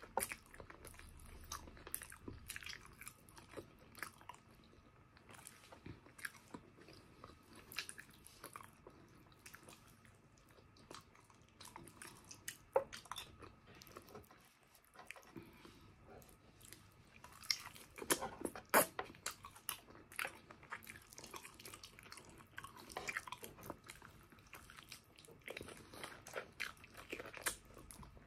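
Close-miked chewing of braised pork leg and rice, with many short wet clicks and smacks. A louder cluster of clicks comes about 18 seconds in.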